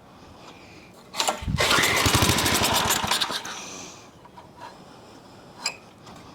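Old Craftsman tiller's Briggs & Stratton small engine pull-started: a sharp yank about a second in, then the engine sputters with rapid firing pulses for about two seconds and dies without catching, typical of a long-idle engine with stale gas still in the carburettor bowl. A single sharp click near the end.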